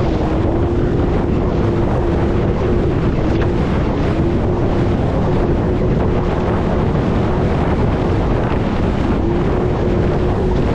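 Jet ski engine running at a steady, high speed under way, its tone holding nearly level, with heavy wind buffeting on the microphone and water rushing past.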